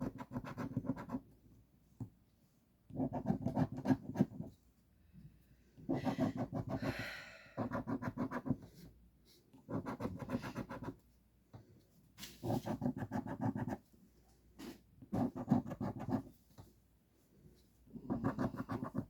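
Rapid back-and-forth scraping of the latex coating on a $5 Monopoly scratch-off lottery ticket. It comes in about eight short bouts of a second or so each, with brief pauses between them.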